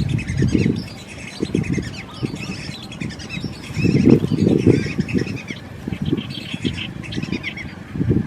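Many birds chirping, with short calls overlapping throughout, over loud, uneven low rumbles that swell about four seconds in.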